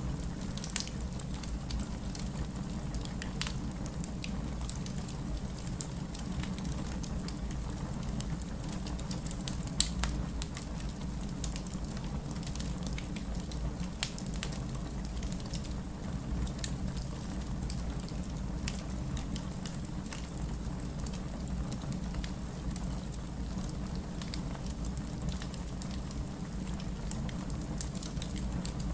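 Wood fire burning in a fireplace: a steady low rumble with scattered crackles and pops throughout, one sharp pop about ten seconds in.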